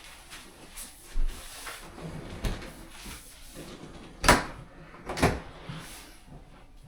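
Four separate knocks and clunks from work on a dishwasher installation, the loudest about four seconds in.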